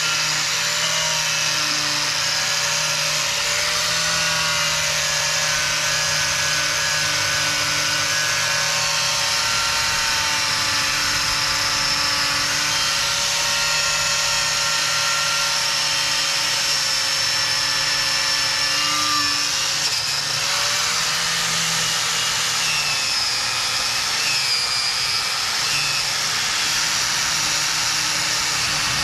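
Angle grinder with a stiff wire cup brush running continuously under load, scouring old undercoat off metal; the motor's pitch wavers slightly as the brush is pressed into the work.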